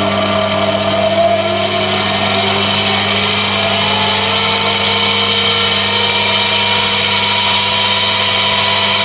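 Chinese mini lathe running with its chuck spinning, the motor and gear train giving a steady hum and a whine that rises slowly in pitch as the spindle speed is turned up.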